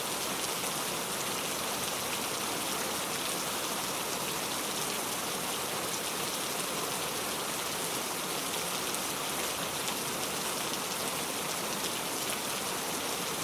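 Heavy rain falling steadily, a dense even hiss of drops on surfaces with fine crackle.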